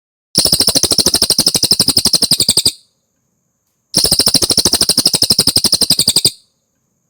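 A cililin songbird giving two fast, rattling trills of evenly repeated notes, each about two seconds long, with a pause of about a second between them.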